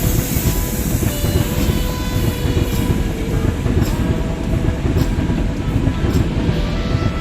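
A train passing close by: a loud, steady rumble of wheels on the rails with several sharp clicks of the wheels over rail joints.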